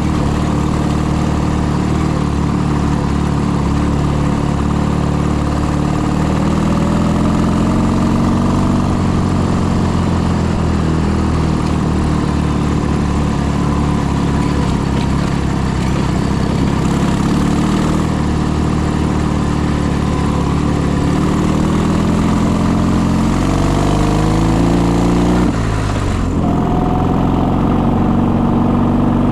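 Motorcycle engine running under way, its pitch rising and falling with the throttle, with a brief drop in revs near the end as a gear is changed before it picks up again.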